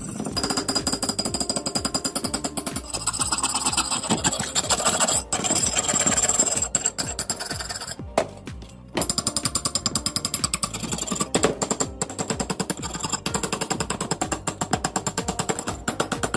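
Hand wire brush and metal scraper scrubbing heavy rust off an old iron axe head, in rapid, even back-and-forth strokes. The scrubbing breaks off briefly about halfway and then picks up again.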